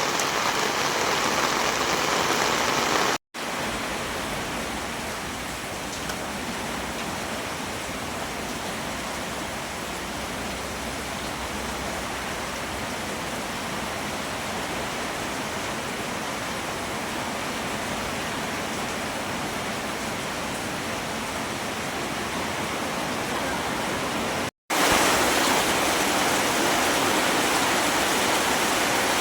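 Heavy rain pouring down, a steady dense hiss. It cuts out abruptly twice, about three seconds in and near the end, and runs a little quieter between the two cuts.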